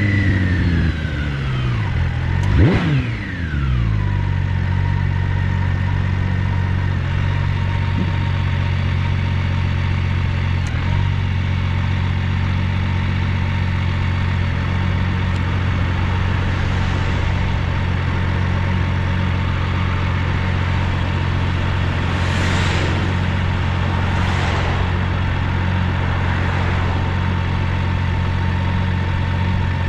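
BMW K1600GTL's inline-six engine breathing through a Hattech aftermarket muffler. The revs fall away in the first few seconds, then the engine settles into a steady idle.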